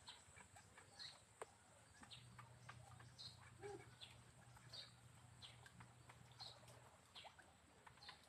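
Near silence with faint, short bird chirps about once a second, a few scattered small clicks, and a faint low hum through the middle.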